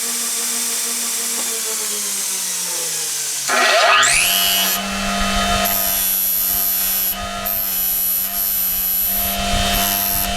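An electric grinder winding down with a falling hum, then switched on again about three and a half seconds in and spinning up with a fast rising whine to a steady running pitch. From about two seconds later, a high hiss comes and goes over the motor sound as the tool is worked against the steel blade.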